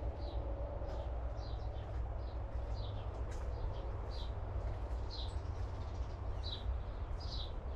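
Small birds chirping: short high notes, often two close together, about once a second, over a steady low rumble.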